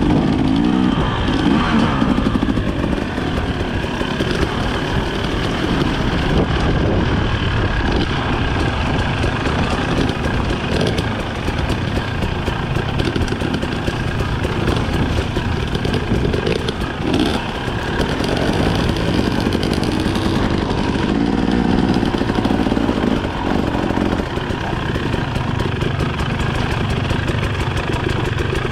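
Dirt bike engine running under a varying throttle, its pitch rising and falling as it is ridden over rocky singletrack. A few sharp knocks come through in the middle.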